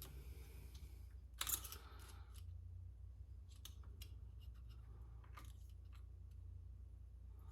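Small metal parts of a Spartan lunchbox locker clicking as they are worked into the differential carrier: one sharper metallic clack about a second and a half in, then a few faint clicks, over a low steady hum.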